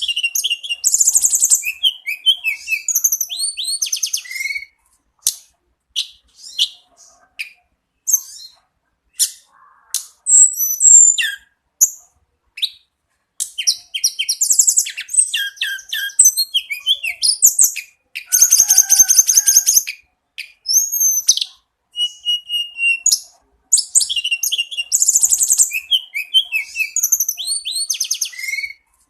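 A tledekan gunung songbird singing vigorously in long, varied phrases of high chirps, quick trills and rapid stuttering notes, with short pauses between them. The opening phrase repeats almost the same about 23 seconds in.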